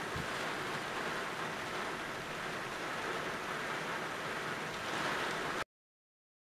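Steady rush of strong wind and rain, cutting off abruptly near the end.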